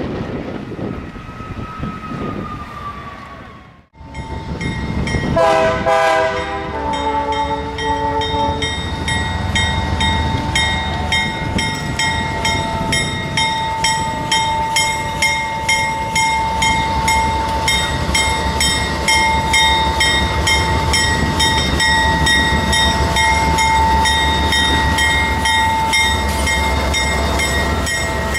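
A train's horn sounds a short multi-note chord, then the train runs past with a steady rumble, a held high-pitched tone and rapid, evenly spaced clicking. The sound cuts off abruptly a few seconds in, just before the horn.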